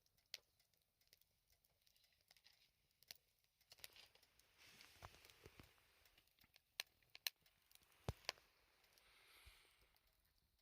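Faint, scattered clicks and light taps over a quiet background, a few of them sharper about eight seconds in.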